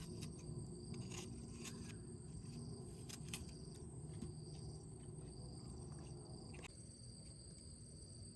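Insects chirring steadily in two high, pulsing tones over a low outdoor rumble, with a scattering of light clicks and knocks that stop about two-thirds of the way through.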